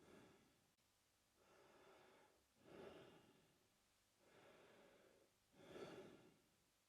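A man breathing slowly and audibly through his mouth: quiet, airy breaths in an even rhythm, a softer breath followed by a louder one, about one full breath every three seconds.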